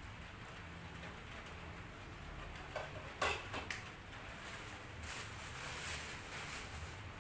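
A few light clicks and knocks, the loudest a little after three seconds in, over a steady low hum; a soft hiss swells for a moment about five seconds in.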